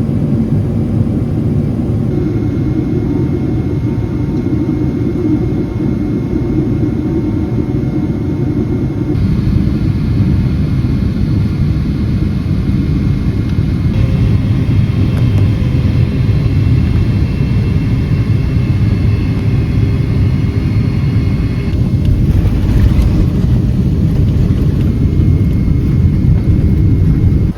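Steady low rumble of cabin noise inside a Boeing 777-300ER in flight. The tone of the rumble changes abruptly a few times.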